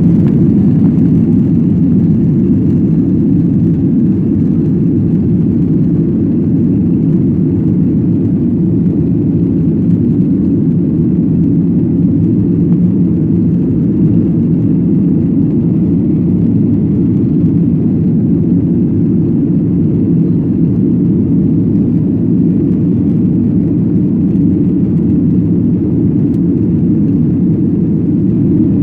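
Airliner cabin noise during takeoff: the engines at high power and the rushing airflow heard from inside the cabin as a steady, loud, low rumble.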